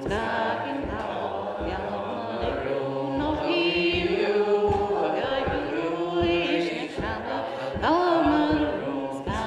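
Group singing a Gaelic milling (waulking) song, with regular thumps of the woven wool cloth being beaten on the table to the beat.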